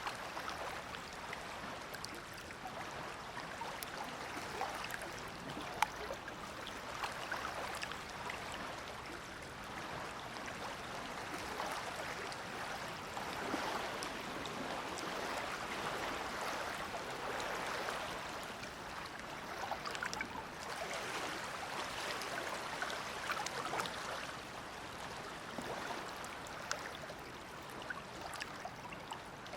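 Shallow Dead Sea water lapping and splashing gently at the shore, a steady wash that swells and eases every few seconds, with occasional small clicks of drips and splashes.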